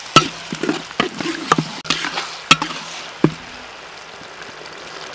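Chili sauce sizzling in oil in a metal wok. A spoon stirring it knocks sharply against the wok about five times in the first three seconds, then only a steady sizzle remains.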